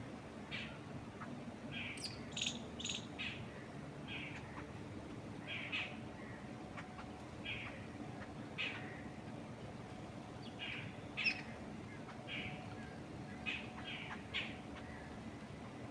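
Birds chirping in short, separate calls, about one a second, with a small cluster of higher, sharper chirps a couple of seconds in, over a steady low rush of wind through trees.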